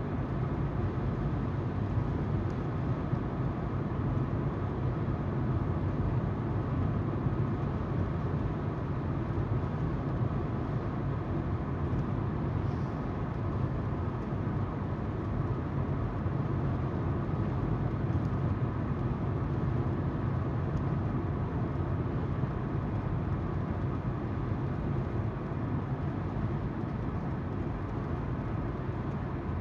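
Car driving at steady speed: even tyre noise on the road and the hum of the engine, heard from inside the car.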